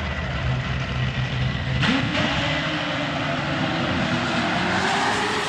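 A vehicle engine running over a steady outdoor background. About two seconds in, a new engine note starts and slowly rises in pitch.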